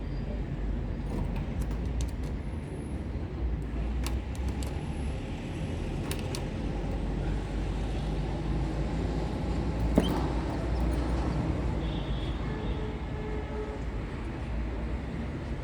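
Steady low background rumble with a few faint clicks, and one sharp click about ten seconds in.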